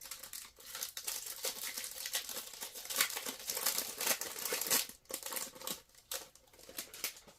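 A trading card pack being opened, its wrapper crinkling and tearing in a dense crackle that thins out in the last couple of seconds.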